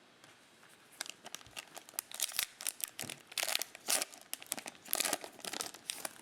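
A Mosaic football trading-card pack's wrapper being torn open and crinkled: a quick run of sharp crackles and rips that starts about a second in.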